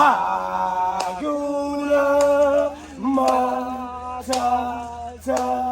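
A man singing a slow melody in long held notes, each about a second long with short slides between them.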